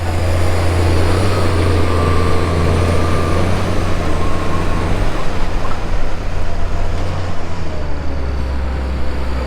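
Tractor engine running steadily under load while pulling a field cultivator, a constant low drone with a noisy hum over it.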